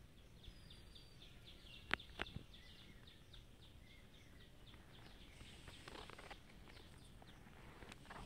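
Faint, rapid series of short high chirps, about five a second, from a small bird calling, with two sharp clicks about two seconds in.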